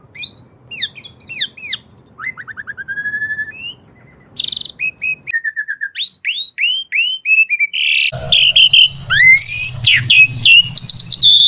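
Asian pied starling (jalak suren) singing: a fast, varied run of chirps, whistled slurs and short falling notes. It grows louder and denser after about eight seconds.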